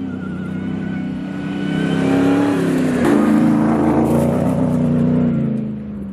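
The supercharged 6.2-litre HEMI V8 of a 2021 Ram 1500 TRX accelerating. The engine note rises and grows louder about two seconds in, holds, then eases off near the end, with a thin high whine rising over the first two seconds.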